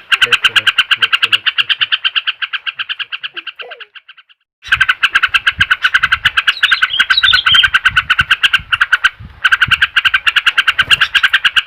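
A rapid, steady pulsing trill, about ten pulses a second, that fades out about four seconds in, stops briefly, then resumes loudly. A few short bird chirps sound over it around the middle.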